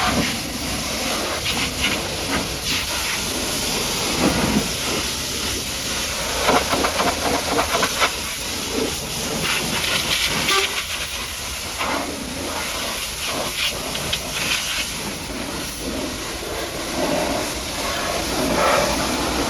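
High-pressure washer jet spraying water onto a mud-caked dump truck, a loud steady hiss that surges and eases as the spray hits different surfaces.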